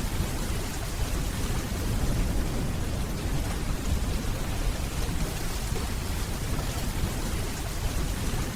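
Steady heavy rainfall, an even hiss with a continuous low rumble underneath.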